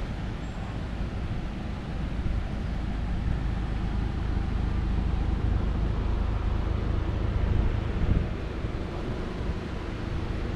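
Street traffic rumbling past, swelling for a few seconds in the middle, with wind buffeting the microphone.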